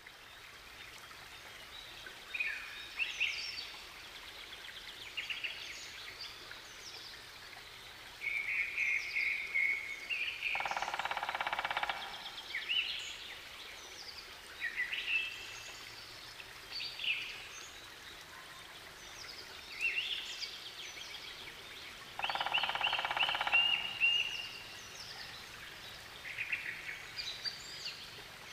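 Wild birds singing: short chirped phrases every second or two over a faint steady hiss, with two louder, harsher calls of a second or two each, about ten seconds in and again past twenty seconds.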